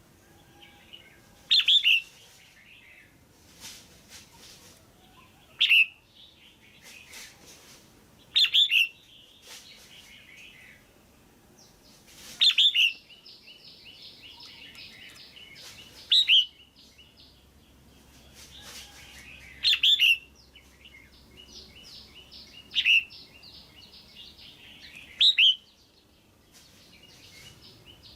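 Female red-whiskered bulbul calling: a loud, short, sweeping note repeated eight times, about every three to four seconds, with a softer rapid twittering between the calls.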